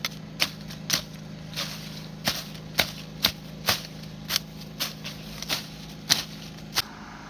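A series of sharp, irregular taps or clicks, roughly two a second, over a faint steady low hum.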